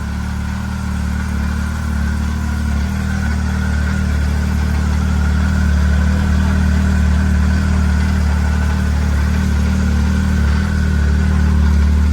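2015 Arctic Cat ZR 7000 snowmobile's four-stroke three-cylinder engine idling steadily just after a cold start, warming up, and getting slightly louder over the stretch.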